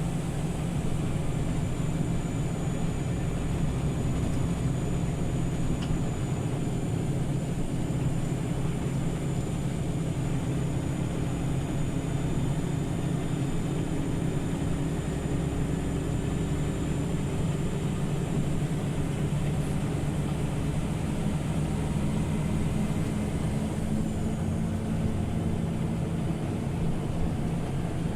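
Scania OmniLink CL94UB city bus heard from inside the cabin while driving between stops: a steady low engine and drivetrain hum with road noise and a faint high whine through much of it.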